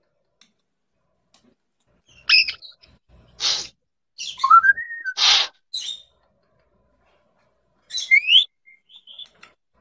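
Pet parrot calls: short chirps, two harsh squawks and several rising whistles, with pauses between them.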